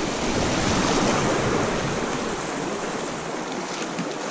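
River rapids: a steady rush of white water.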